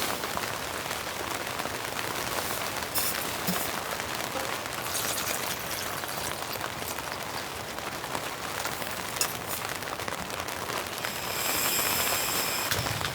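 Steady rain falling, an even hiss with scattered sharper drop hits. It grows louder and hissier for a couple of seconds near the end.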